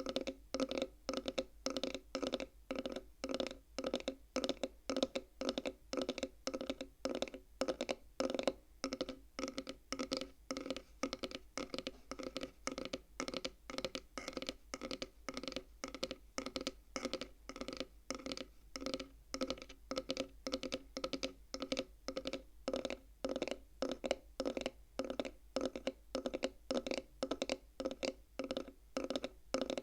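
Tapping on the wooden frame of a bead counting-frame toy: an even run of quick taps, about three a second, each with a short woody ring at the same pitch.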